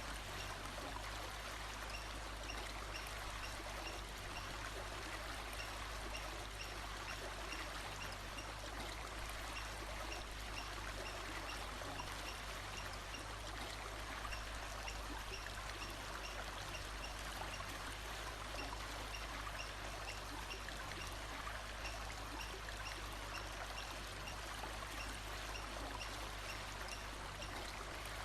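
Steady rush of flowing stream water, unchanging throughout, with faint high chirps repeating at an even pace underneath.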